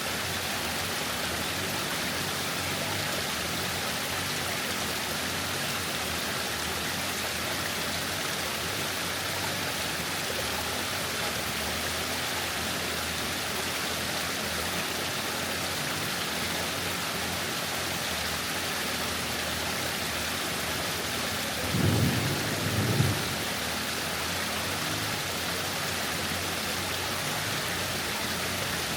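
Waterfall rushing in a steady, even roar. About three quarters of the way in, a brief low rumble lasting about a second stands out above it.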